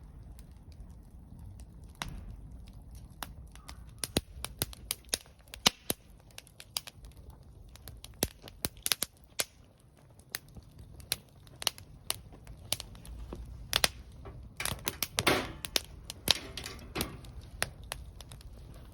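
Wood fire crackling, with sharp irregular pops and snaps and a denser flurry of crackles about fifteen seconds in.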